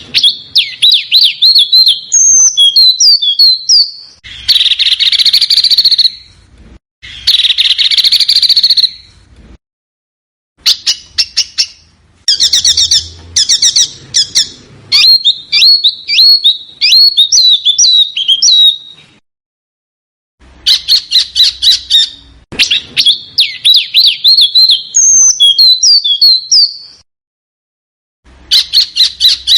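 Small songbird singing: rapid, shrill trills and chattering phrases, with two harsh rasping bursts a few seconds in, broken by brief silences.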